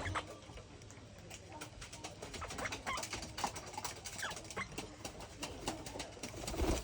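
Ringneck parakeets giving short, scattered chirps and clicks, some of them falling in pitch.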